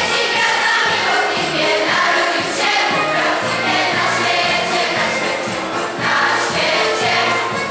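Choir singing a Polish Christmas carol (kolęda) with instrumental accompaniment.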